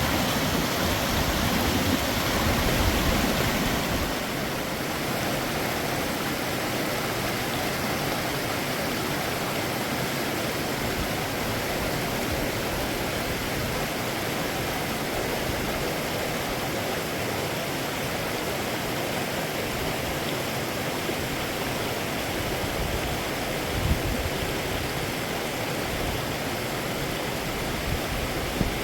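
Mountain stream water rushing and splashing steadily, a little louder and fuller for the first few seconds.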